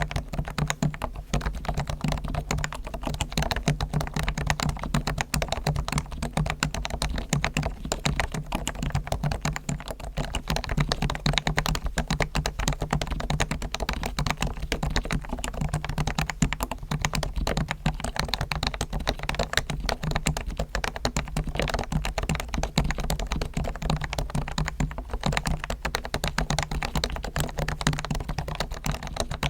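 Continuous fast typing on a Realforce R1 Topre electrostatic capacitive keyboard, its key sliders and springs lubricated with Krytox, its stabilizers tuned, and its case dampened with foam. The keystrokes come as a dense, even stream of soft clicks.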